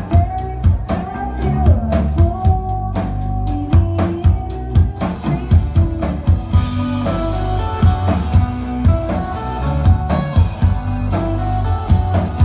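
Rock band playing live: drum kit keeping a steady beat under electric guitars and bass. About halfway through the sound turns brighter and fuller.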